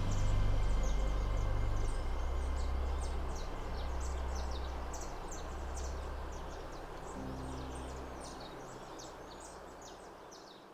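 Nature ambience of many short, high chirps over a low, held bass drone that steps between a few pitches. The whole sound fades steadily.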